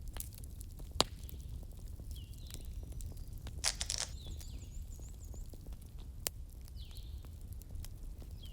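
Fireplace ambience: a wood fire crackling with scattered sharp pops over a steady low rumble, the loudest pop about a second in and a quick cluster near the middle. Short high chirps, like small birds, recur every second or two.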